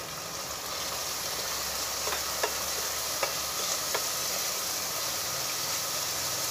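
Chopped onions and freshly added tomatoes sizzling in hot oil in a metal pan, stirred with a spatula that knocks against the pan about four times around two to four seconds in.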